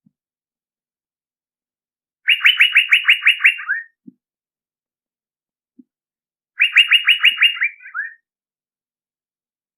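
Male Asian fairy-bluebird (cucak biru) calling, played as a lure call: two phrases, each a quick run of about nine short notes lasting about a second and a half. The first comes about two seconds in and the second after about six and a half seconds; the second trails off in a few lower, slurred notes.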